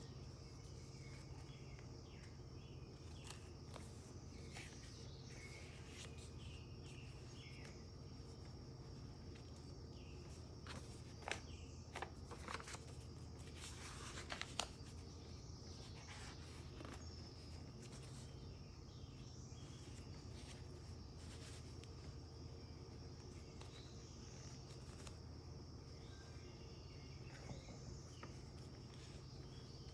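Faint handling of a paper journal: a few soft taps and a short rustle of pages about halfway through, over a steady low hum and quiet room tone.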